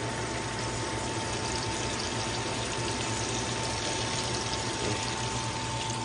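Bay scallops sizzling in bacon grease in a nonstick frying pan, a steady hiss, with a thin steady whine underneath.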